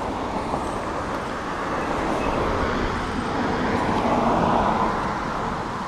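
A car passing on the road, its tyre and engine noise swelling to a peak about four seconds in and then fading.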